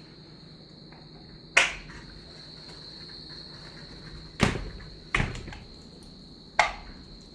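Steady high-pitched chirring of insects, with four sharp knocks about a second and a half in, twice around four and a half to five seconds, and again near the end.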